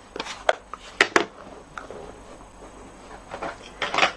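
A few sharp clicks and taps of small craft tools and supplies being handled on a desk, two close together about a second in and another near the end.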